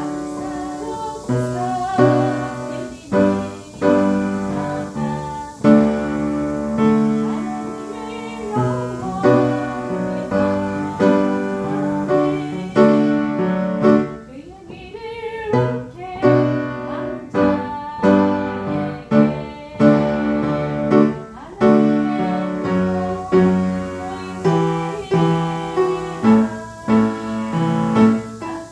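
Piano playing a slow hymn or praise song, with a voice singing along with vibrato at times.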